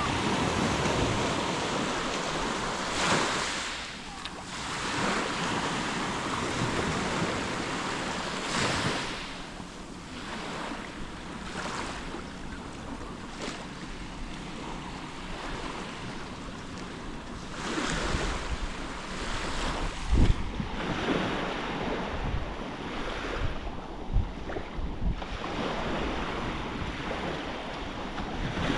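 Black Sea waves surging and breaking on the shore, rising and falling in swells, with wind buffeting the microphone. Two short sharp thumps come about two-thirds of the way through.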